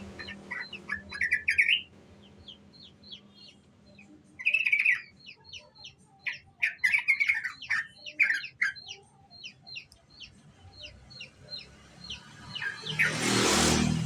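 Young yellow-vented bulbul giving its chattering 'ngriwik' call: series of short high chirps broken by quick twittering bursts. Near the end a loud rush of noise lasts about a second.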